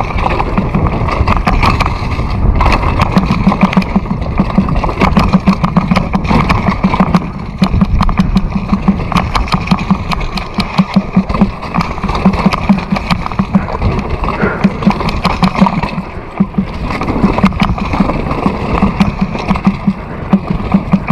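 A vehicle's engine running steadily during a ride, with rushing noise and frequent small knocks over it.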